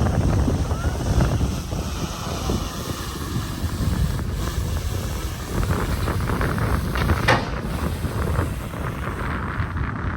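Bulldozer's diesel engine rumbling steadily under load, with wind buffeting the microphone. A brief sharp knock sounds about seven seconds in.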